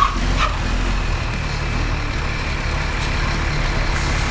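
Truck engine running steadily at low revs, a deep even rumble.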